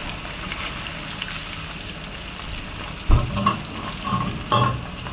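Food sizzling in a kadhai as a steady hiss. About three seconds in there is a sudden loud knock, followed by a few short clatters.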